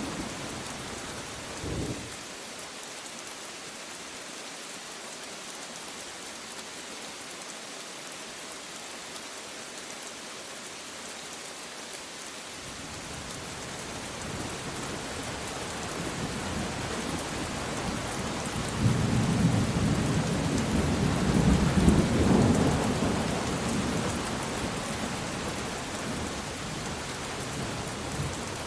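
Steady heavy rain hissing, with a brief low thump about two seconds in and a long roll of thunder that builds from the middle, is loudest a few seconds later, and fades near the end.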